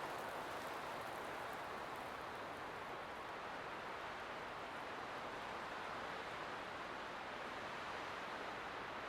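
Light wind blowing: a soft, steady rush with slight slow swells.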